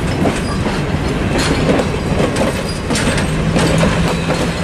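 Railroad passenger coach and caboose rolling past close by, with a steady rumble of wheels on rail and repeated clicks as the wheels cross the rail joints. A low steady hum comes in about three seconds in.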